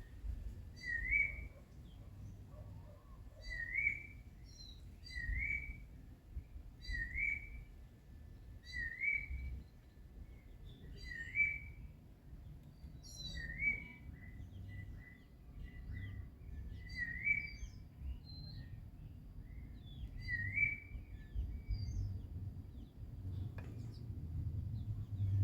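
A bird singing, repeating a short rising note every second or two, with fainter higher chirps between, over a low rumble.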